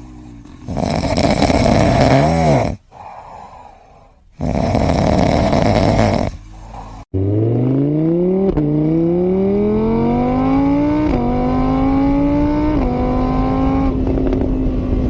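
A car engine accelerating up through the gears: its pitch climbs, drops at each of three shifts, then holds steady near the end. Before it come two loud, rough noisy bursts.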